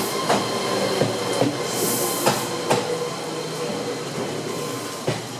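Meitetsu electric train moving through the station, its wheels clacking over rail joints and points. The clacks come further apart and grow fainter as it goes.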